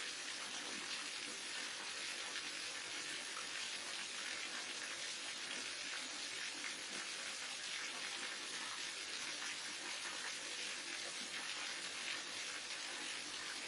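A waterfall's steady rush of falling water, an even splashing hiss that does not change.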